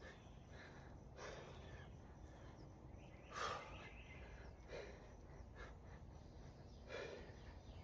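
A person breathing hard through a kettlebell snatch set: short, sharp breaths every second or two, the loudest about three and a half seconds in.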